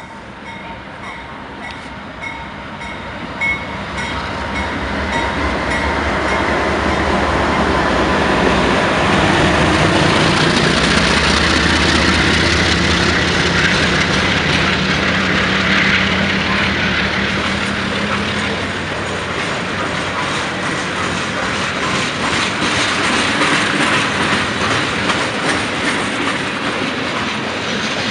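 Diesel locomotives of a freight train approaching and passing close by, their engine drone building to its loudest near the middle, then the wheels of the tank cars behind clicking and rumbling over the rail joints as they roll past.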